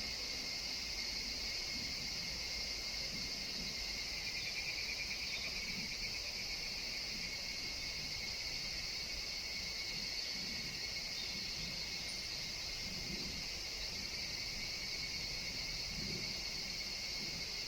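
Steady, unbroken chorus of forest insects: a high-pitched ringing drone with a fainter, lower-pitched band beneath it, over a low background rumble.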